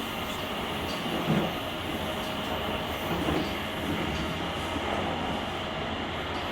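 Running noise of a JR Kyushu 883 series electric train, heard from the vestibule deck of a motor car: a steady rumble of wheels on rail, with a couple of short thumps about a second and three seconds in.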